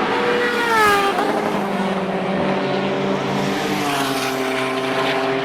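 Kawasaki H2R 998cc supercharged inline-four engine in a Fiat 600L running at speed. Its note drops about a second in, holds steady, then eases lower again about four seconds in.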